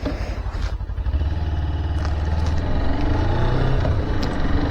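Motorcycle engine running, its pitch rising steadily in the second half as the bike picks up speed.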